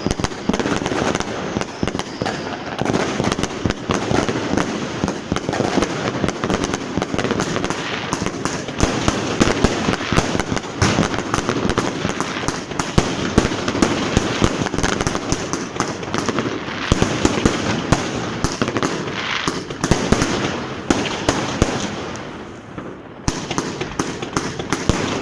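Consumer fireworks and firecrackers going off nonstop in a street: a dense, overlapping crackle of many bangs and pops, easing briefly a few seconds before the end.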